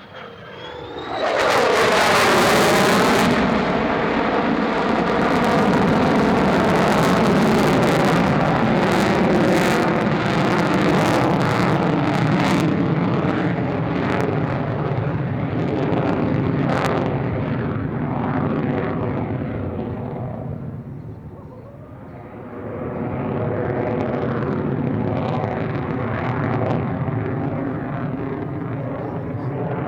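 F-35A Lightning II's single afterburning turbofan jet engine roaring past in a fast low pass, its pitch falling sharply about a second in as the jet goes by. The roar stays loud, eases briefly around two-thirds of the way through, then builds again.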